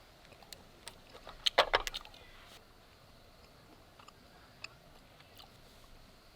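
A brief clatter of small hard objects clinking together about one and a half seconds in, with a few light ticks and knocks scattered before and after.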